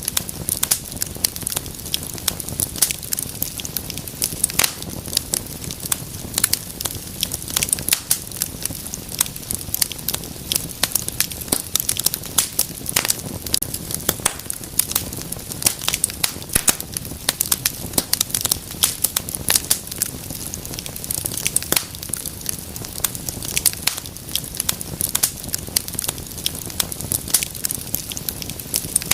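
Wood fire burning in a fireplace, crackling and popping with frequent irregular sharp snaps over a low steady rumble of flame.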